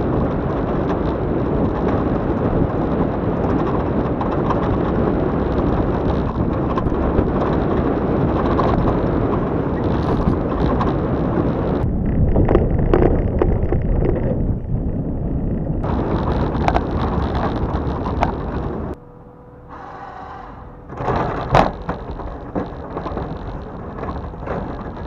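Plow car driving and pushing snow with its plow, a loud steady noise that drops suddenly to a quieter hum with a few knocks near the end.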